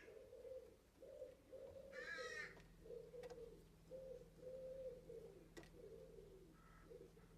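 Faint bird calls: a run of low, evenly repeated notes, about two a second, with one short harsh screech about two seconds in.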